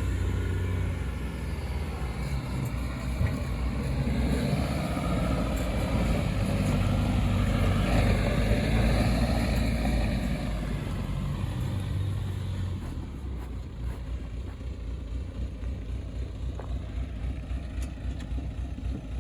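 Pinzgauer 710 K off-road truck's engine running during a drive. It grows louder toward the middle, then drops to a quieter, steady level about thirteen seconds in.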